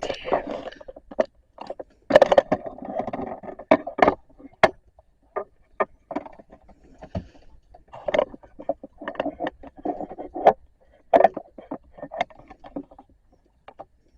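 Irregular knocks, clicks and short scraping sounds, as of objects being handled and moved about.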